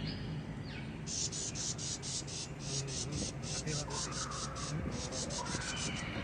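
An insect calling in rapid high buzzing pulses, about five a second, starting about a second in and stopping near the end.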